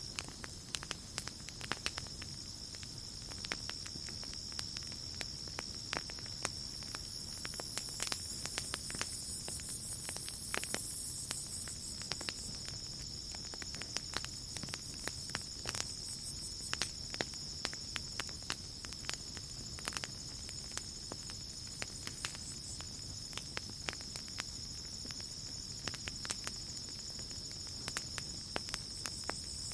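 Wood campfire crackling with frequent sharp pops and snaps, over a steady high-pitched trill of night insects such as crickets.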